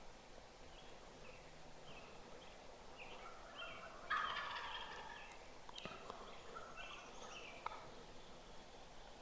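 Wild turkey gobbling once, loud and rattling, about four seconds in, with shorter turkey notes before and after it.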